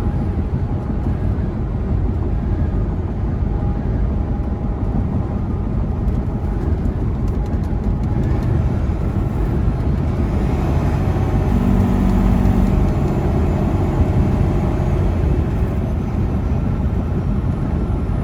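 Semi truck driving at highway speed: a steady engine drone and tyre and road noise, heard from inside the cab.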